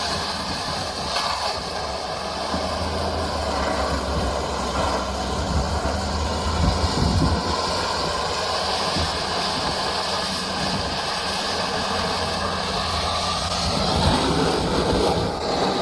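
Steady rumble and hiss of a vehicle in motion, continuous throughout with no distinct impacts.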